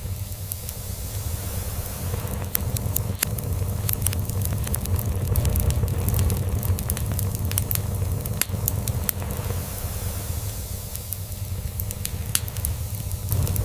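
Log fire crackling with frequent sharp pops and snaps, over a low, continuous cat's purr that swells and fades.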